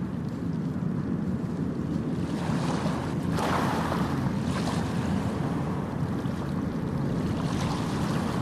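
Ocean surf: a steady rush of waves, with one wave breaking louder about three seconds in and smaller washes after it.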